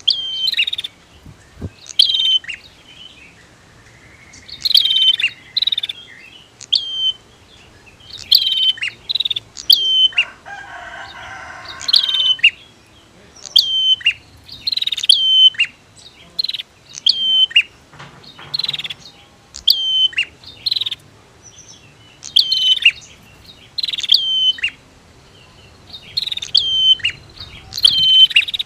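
Prinias (prenjak) calling: sharp, high chirps, each with a quick downward flick, repeated in short groups of two or three. About a third of the way in there is a harsher, buzzing call.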